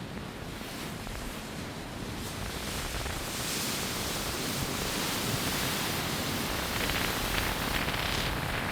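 Steady rushing noise of strong storm wind with ocean surf, slowly building and turning hissier about a third of the way in.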